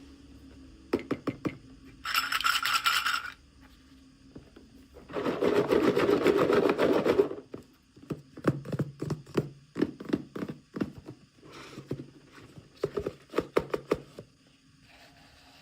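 Hands unboxing small toys: packaging rustling and scraping in two noisy bursts, the second longer and louder, then a quick run of small clicks and taps as pieces are handled.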